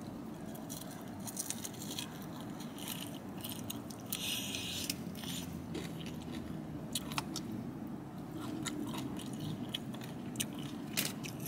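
A person quietly chewing and biting into extra-crispy fried chicken wings, with a few short crunches in the second half.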